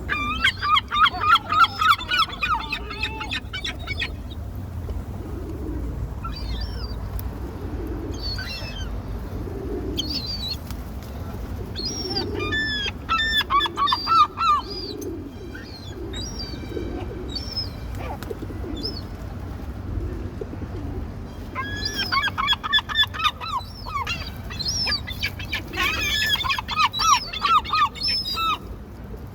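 Birds calling in bursts of fast repeated notes, four bursts in all, over a steady low rumble.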